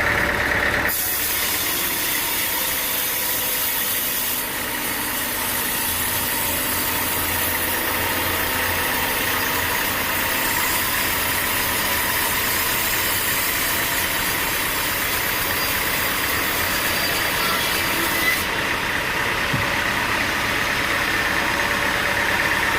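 Engine running steadily under a thin, even whine. The sound changes abruptly about a second in and again near the end.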